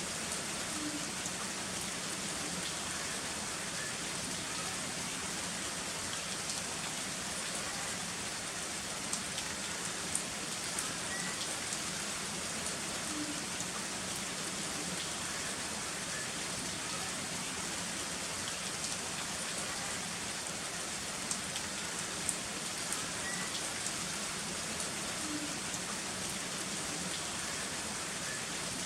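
Heavy rain falling steadily, with scattered sharper ticks of single drops striking a surface.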